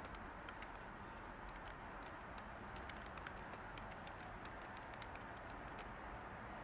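Light, irregular clicks of typing on a computer keyboard over a steady white-noise hiss.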